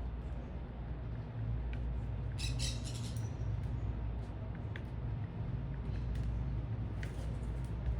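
Small birds chirping, with a quick cluster of high calls about two and a half seconds in and single short chirps scattered through, over a steady low rumble of city traffic.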